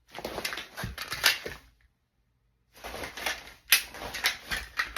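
Fabric rustling and clicking as a Glock 30 pistol is drawn from a hoodie pocket and handled, in two bursts with a short silence between.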